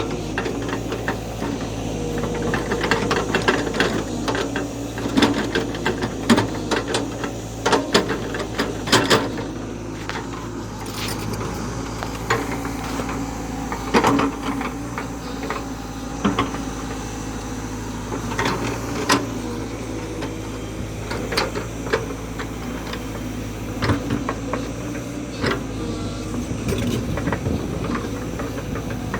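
JCB backhoe loader's diesel engine running steadily while working, with frequent sharp clanks and knocks from the machine.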